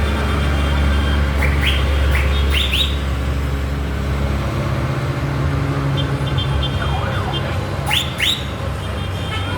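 Tractor engines running as tractors pass in a road procession, a steady low rumble that is heaviest in the first half. Short high rising chirps sound over it in a cluster about two seconds in and again near the end.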